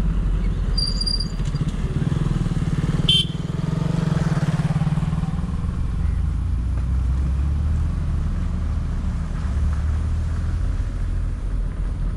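Hero Honda motorcycle engine running steadily at a low cruising speed, heard from on the bike. A brief high beep comes about a second in, and a sharp click about three seconds in.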